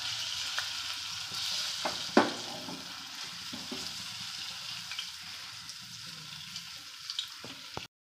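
Batter-coated spiral-cut potato on a wooden skewer frying in hot oil: a steady sizzle with a few sharp pops, the loudest about two seconds in. The sizzle slowly fades and cuts off just before the end.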